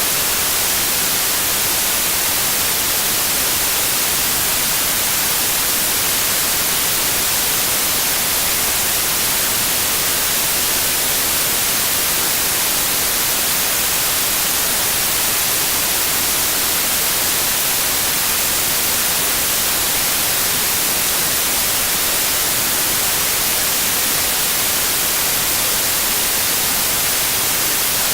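Steady white noise: a continuous, even hiss that does not change.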